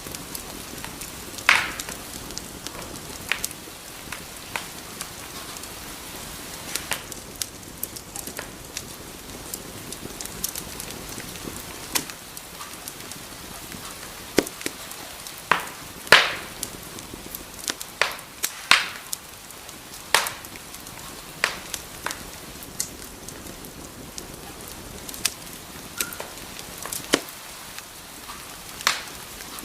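Wood fire burning in a fireplace: a steady soft hiss with irregular crackles and sharp pops, several of them much louder than the rest.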